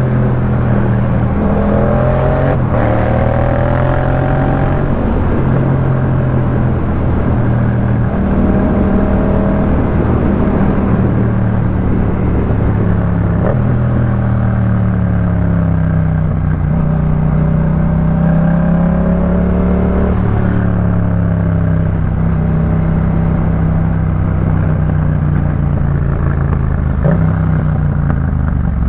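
2018 Yamaha MT-07's parallel-twin engine through a Jeskap K4 full aftermarket exhaust, under way: the engine note climbs in short runs and steps to new pitches, which fits gear changes, with long stretches of steady cruising.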